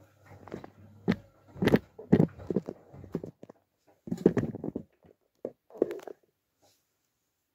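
Miele W433S front-loading washing machine tumbling a load of stuffed toys and pillows in the wash, the load thudding and sloshing in irregular bursts over a low motor hum; the drum stops about six seconds in.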